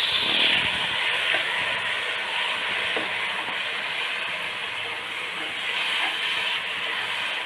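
Onion, tomato, spice and mint masala sizzling steadily in a pot as it is stirred.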